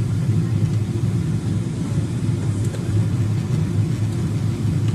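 Steady low rumble of a jet airliner's cabin in flight: engine and airflow noise.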